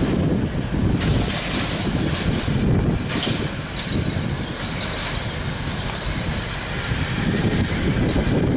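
A train running at the station platform: a steady low rumble, with short hisses about a second in and again about three seconds in, and a faint steady high whine.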